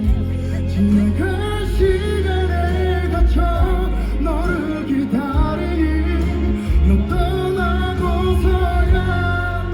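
Live performance of a Korean pop ballad: the band plays on with singing, and the bass runs steady under it.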